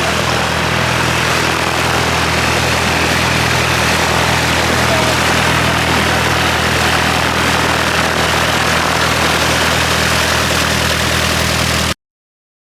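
Diesel engine of a semi truck running steadily at idle close by, a deep even hum under a wash of noise. It cuts off suddenly near the end.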